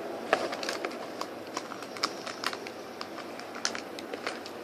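Chewing a chocolate cookie close to the microphone: irregular sharp clicks and crunches, about three or four a second.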